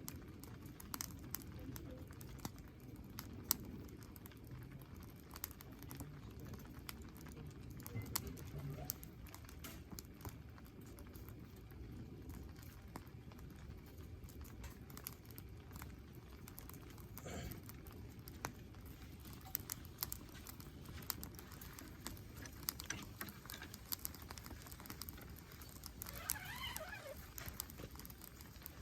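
Campfire burning: firewood crackling and popping in irregular sharp snaps over a low steady rumble.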